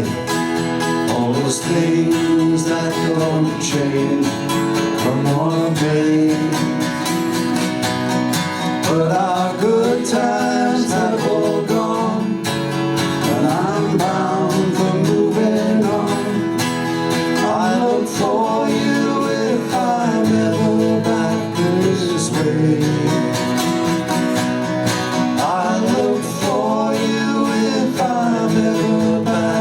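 Country-folk band music led by strummed acoustic guitars, with a melody line that glides in pitch.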